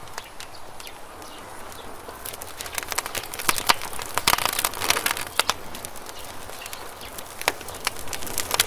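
Wood campfire burning and crackling, with a steady hiss under sharp pops and snaps that come thickest a few seconds in.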